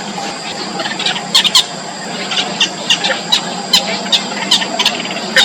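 Yellow bittern chicks in the nest giving short, sharp, high-pitched calls: a pair a little over a second in, then a quick series of about two to three calls a second.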